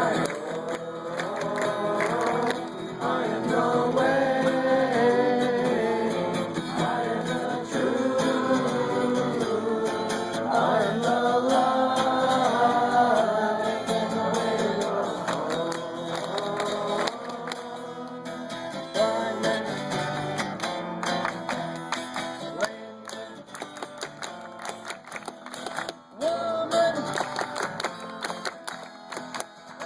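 A group singing a song together to a strummed acoustic guitar. The voices are strong for the first half, then grow quieter while the guitar strumming carries on.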